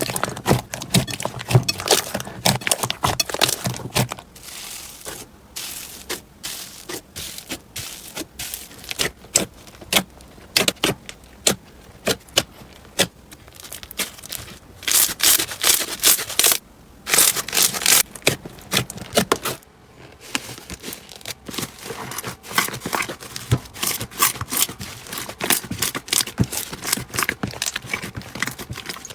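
Slime being squeezed and worked by hand close to the microphone: a dense run of sticky crackles, clicks and small pops. The crackling is thinner for a stretch early on and again just after the midpoint, then thickens.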